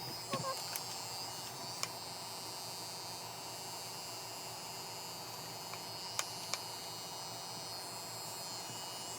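Cordless electric hair clippers running with a steady buzz, with a few faint clicks.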